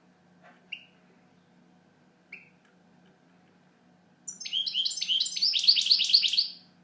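European goldfinch giving two short single chirps, then a fast twittering song phrase of about two and a half seconds.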